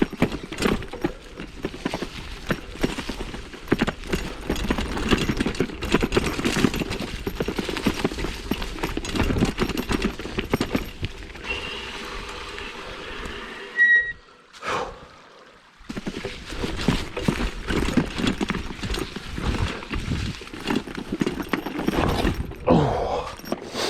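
Mountain bike being ridden over a dirt trail: a steady run of irregular knocking, rattling and crunching from the tyres and bike. It breaks off for a moment a little past halfway, then carries on.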